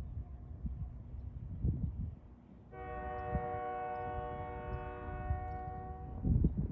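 Union Pacific diesel locomotive horn sounding one long, steady chord for about three and a half seconds, starting near the middle, over a low rumble.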